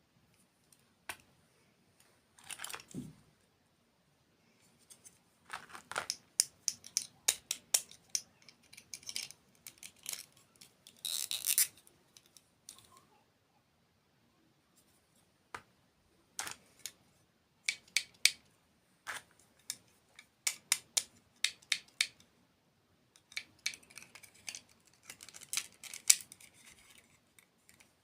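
Close-miked eating: bites and crunchy chewing, heard as clusters of sharp crackling clicks with short pauses between them.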